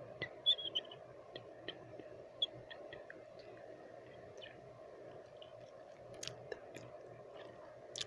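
Close-up wet mouth sounds: irregular sticky clicks and smacks of lips and tongue, a quick cluster of them in the first second, over a steady soft noise bed.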